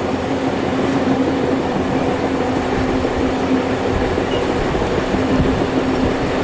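Steam-hauled heritage passenger train under way, heard from aboard: a steady rumble of the carriages running on the rails, with a low steady hum.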